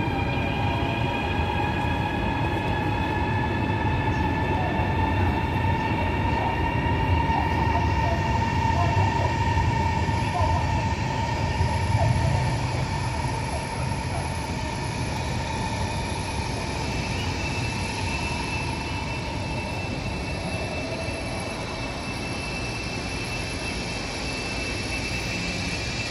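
High-speed electric train moving through a station platform: a whine of several steady tones that drift slowly in pitch over a low rumble. It is loudest about twelve seconds in, then eases off.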